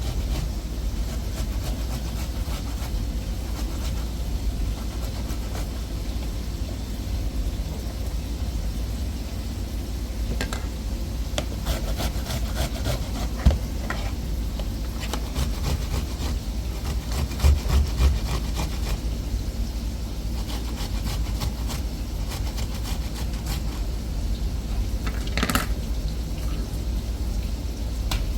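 A steady low rumble with scattered scraping and clicking, most of it in a run in the middle, and a short higher sound near the end.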